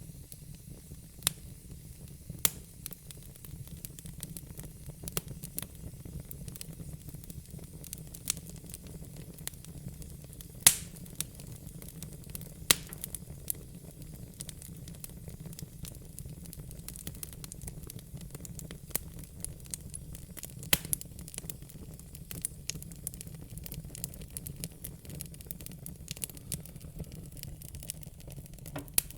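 Fire crackling: irregular sharp snaps and pops over a low, steady background noise, with the loudest pop about ten seconds in.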